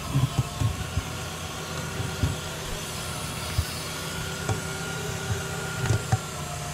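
Toyota 1UZ-FE VVTi V8 idling with its air intake pipe pulled off, a steady hiss of air being sucked into the open intake, while the intake is checked for restriction. A few knocks as the intake pipe and hose are handled, about a second in, about two seconds in and near the end.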